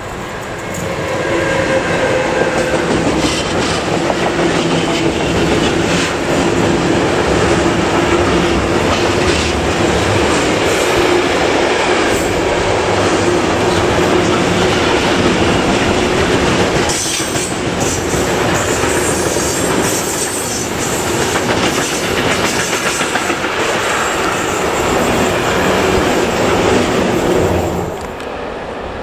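Electric freight locomotive and a long train of tank-container wagons passing close by: a steady loud rumble of wheels on rail with irregular clickety-clack over the rail joints and a steady hum running through it. The sound drops away sharply near the end.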